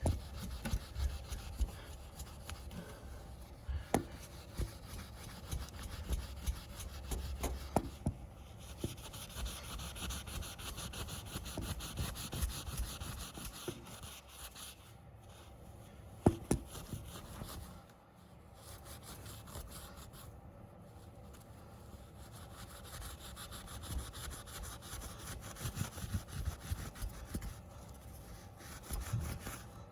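A cleaning pad scrubbing and rubbing rust off a chrome motorcycle wheel rim and its spokes, with a few light knocks along the way.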